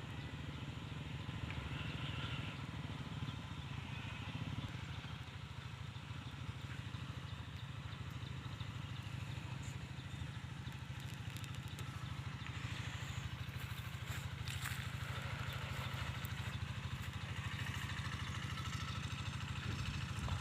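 Diesel engine of a Quick G1000 Boxer hand tractor running steadily with an even, rapid thumping beat while it works the ground.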